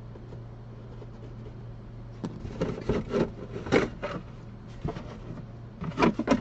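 Irregular rubbing, scraping and knocks of car interior parts being handled and pulled at, starting about two seconds in, over a steady low hum.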